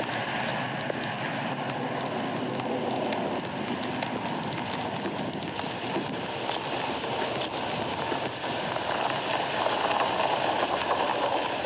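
Steady hissing noise, like rain or wind on a microphone, with a couple of faint clicks about two-thirds of the way through.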